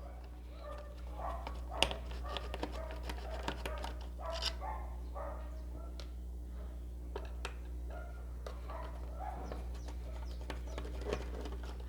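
Scattered small clicks and taps of a screwdriver and plastic housing parts as screws are taken out of the back of a steam iron, the sharpest click about two seconds in, over a steady low hum.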